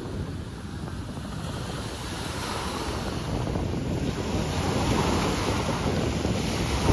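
Sea waves washing onto a sandy beach, with wind buffeting the microphone. The rush of the surf grows louder over the first few seconds.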